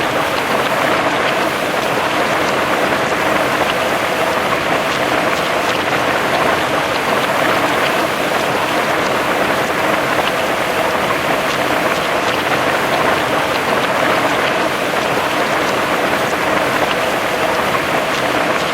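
Steady heavy rain falling on a surface, a dense even hiss with many small drop ticks scattered through it.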